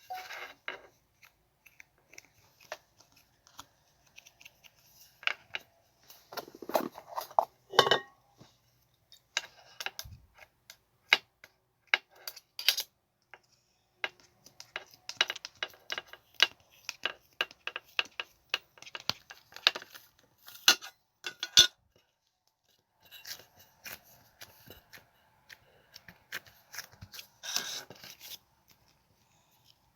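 Close handling noises: irregular sharp clicks, snips and crackles in uneven clusters, with a few short pauses.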